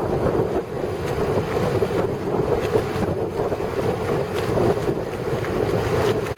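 Sailboat under way: wind buffeting the microphone over the steady rush of water along the hull.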